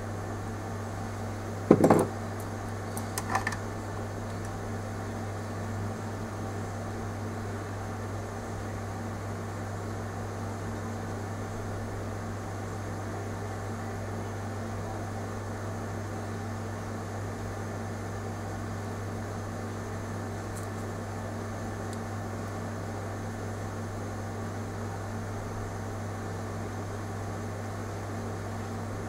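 A steady electrical or mechanical hum, like a small fan or appliance running. About two seconds in comes a sharp knock, followed by a few lighter clicks.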